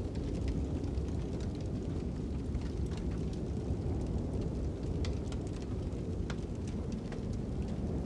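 A fire crackling with irregular sharp pops, several a second, over a steady low rush of wind.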